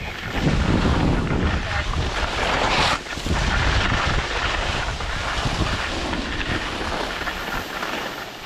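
Wind buffeting the microphone: a steady rushing noise with a low rumble that dips briefly about three seconds in.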